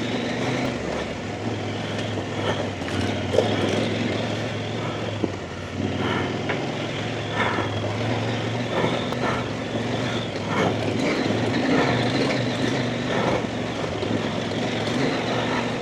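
Off-road trail motorcycle engine running at low, fairly steady revs while being ridden over a rough, rocky lane, with scattered knocks and clatter as the bike goes over stones.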